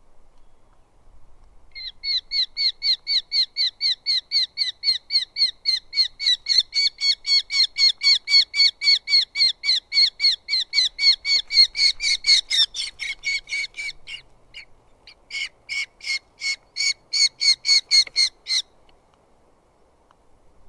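Eurasian hobby calling: a long, fast series of short sharp repeated notes, about four a second. The series breaks off briefly about two-thirds of the way through, then resumes for a few more seconds.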